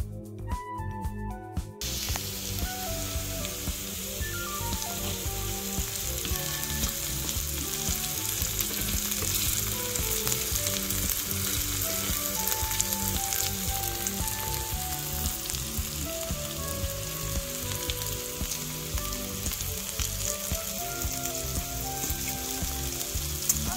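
Okra and onions sizzling in a hot cast iron skillet as they cook down on high heat, stirred with a wooden spoon; the sizzle starts about two seconds in and then holds steady. Background music plays throughout, alone at the start.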